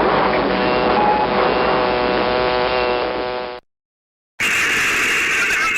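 Cockpit voice recorder audio of steady aircraft cockpit noise with a droning hum of several steady pitches, cutting off abruptly about three and a half seconds in. After a brief silence a different, hissier recording starts.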